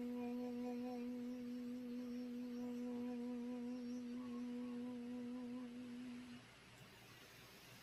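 Singing bowl ringing with one steady low tone and a slow wobble, fading away until it dies out about six seconds in.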